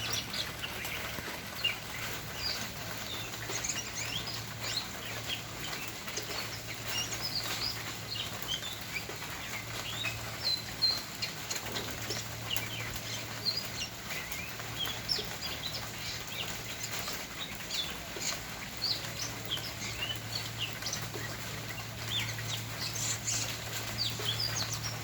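Small birds chirping: many short, high calls scattered irregularly throughout, over a low hum that fades in and out.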